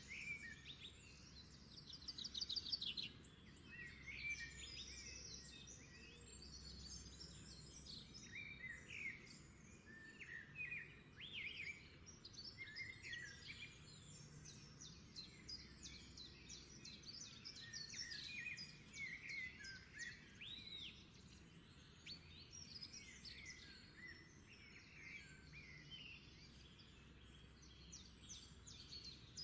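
Small birds chirping and trilling, faint, in many short rising and falling calls and quick rattling trills.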